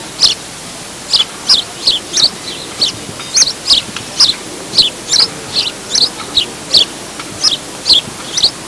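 A bird calling over and over: short, high-pitched chirps repeating steadily about three times a second.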